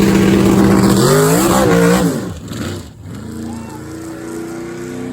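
Drag racing vehicle's engine at full throttle, loud and close, its pitch wavering about a second in, then dropping away about two seconds in. A quieter engine runs steadily after that.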